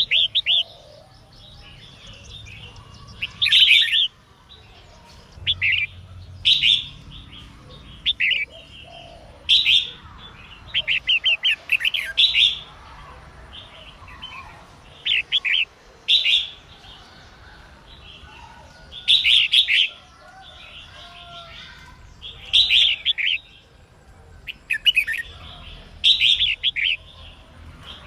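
Female red-whiskered bulbul singing: short, loud song phrases repeated every one to three seconds with brief pauses between, the kind of female song used to provoke males into singing.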